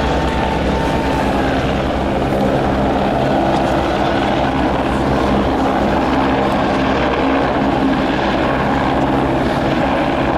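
A steady, loud mechanical drone with a constant low hum, holding level throughout.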